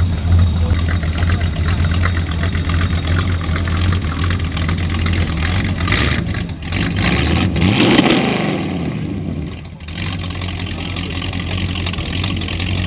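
Hot-rod pickup's V8 engine running with a steady low rumble, revving up and down once about seven to eight seconds in as the truck pulls away.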